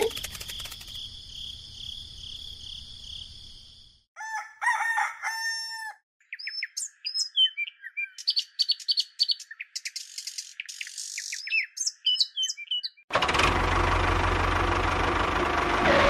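A rooster crows about four seconds in, followed by several seconds of many birds chirping. Before it a high, steady, pulsing insect trill sounds. Near the end a loud, even noise with a low hum takes over.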